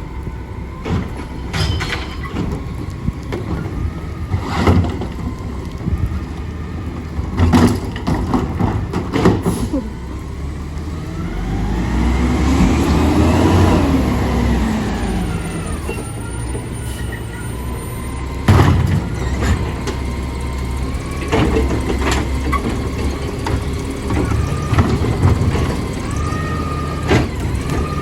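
Garbage truck working: its diesel engine runs steadily, revving up and back down about halfway through, with scattered bangs and clanks along the way.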